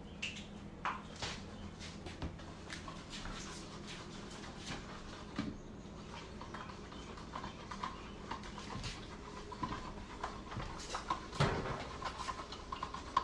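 Kittens making many faint, short squeaks, among scattered soft taps and rustles over a low steady hum.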